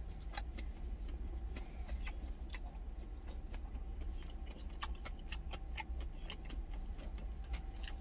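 A man chewing a mouthful of pork belly and rice, with many small irregular mouth clicks and crunches. Under it runs a steady low rumble.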